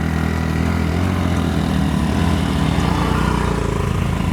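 Motorcycle engine running under throttle as the bike is taken up a slope, a steady low engine note that wavers slightly in pitch.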